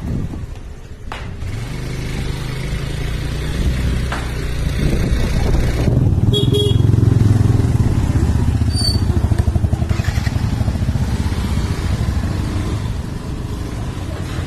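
Motor vehicle engine running, dipping briefly about a second in, then growing louder through the middle, with two short high-pitched tones around the middle.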